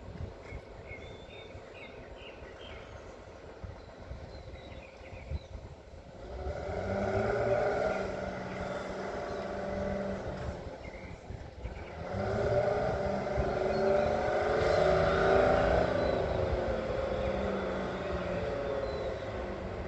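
A heavy vehicle engine comes up to speed about six seconds in, falls back briefly, then runs hard again with its pitch rising and falling.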